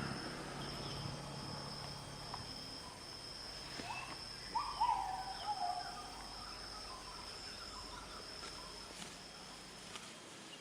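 Faint outdoor ambience with a steady high-pitched insect drone, like crickets, that fades out near the end. A few faint chirping calls come about halfway through.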